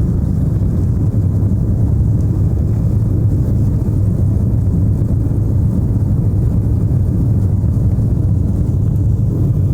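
Jet airliner engines at take-off power, a steady low rumble with little high-pitched whine.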